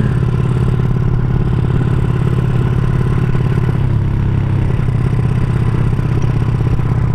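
Honda Supra underbone's four-stroke single, bored out to 200 cc, running steadily through an aftermarket CJDW exhaust while riding at an easy pace; the exhaust note shifts briefly about four seconds in.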